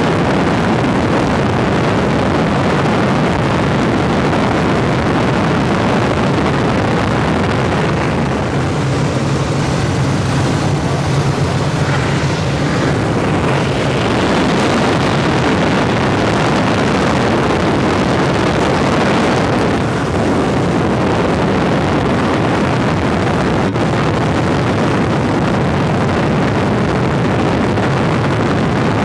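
Helicopter in flight heard from inside the cabin: a loud, steady din of engine and rotor, with a low hum that strengthens for a few seconds near the middle.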